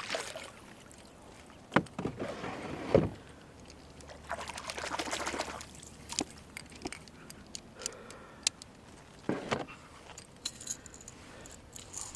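Fishing lures and tackle clinking and rattling as they are handled, with a few sharp knocks and a brief rustling stretch about four seconds in.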